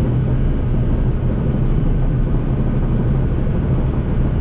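Heavy-equipment diesel engine running steadily at a constant level, with a low hum.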